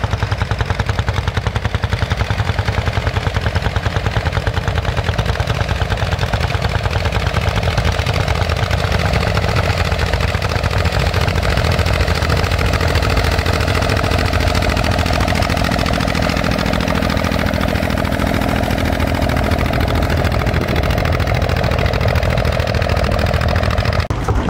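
Vintage farm tractor engine running steadily with a fast, even beat.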